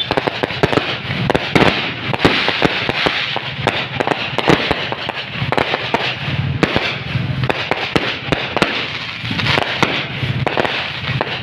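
Fireworks and firecrackers going off, a dense, continuous barrage of sharp cracks and bangs with a steady crackle under them.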